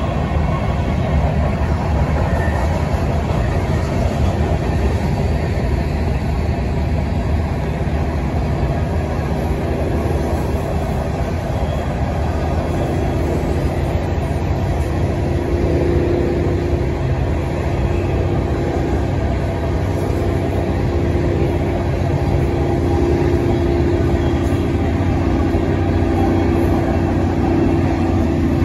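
A train running along the tracks, with a continuous heavy rumble of rolling rail cars. About halfway through, a steady diesel-engine drone joins in and holds to the end.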